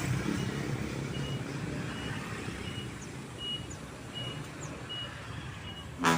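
A truck's reversing alarm beeping steadily, a bit more than once a second, over engine rumble that is stronger at the start. A sudden loud burst comes just before the end.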